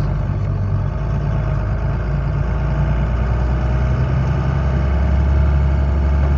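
Truck engine running steadily at low speed, its low hum dropping in pitch about a second in and again near the middle as the engine speed changes.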